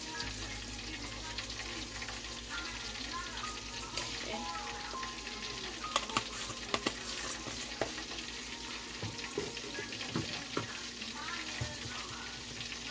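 Chicken frying in hot oil: a steady sizzle and crackle, with a few sharp clicks about halfway through.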